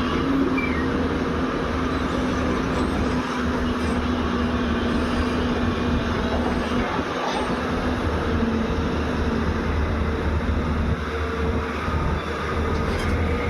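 JCB 205 excavator's diesel engine running steadily under working load, a low rumble with a steady hum, with no sharp knocks or pauses.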